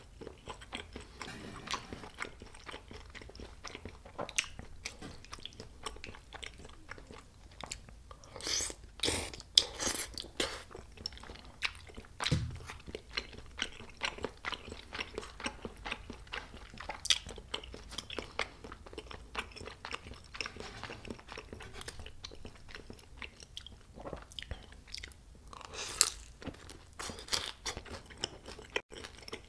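Close-miked chewing of food, with wet mouth sounds and frequent small crunches and clicks. Louder clusters of crunching come about nine seconds in and again near the end.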